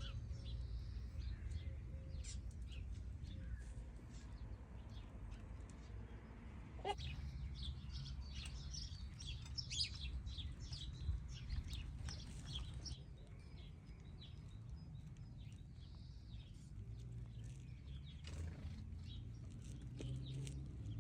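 Birds chirping: many short, high chirps that come thickest around the middle, over a low steady rumble.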